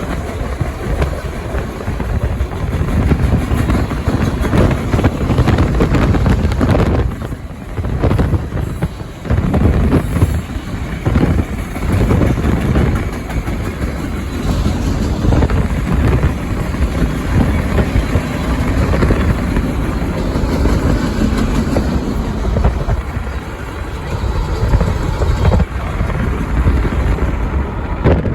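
BNSF mixed freight train rolling past: a loud, steady rumble and rush of railcars on the rails. It dips briefly about seven and nine seconds in.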